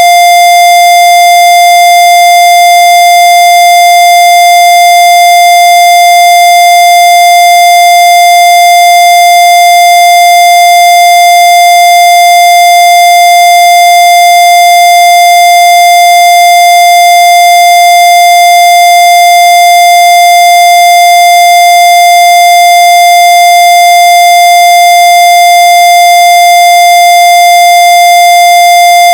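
Loud electronic tone: one steady, unchanging mid-high pitch with buzzy overtones, held without a break.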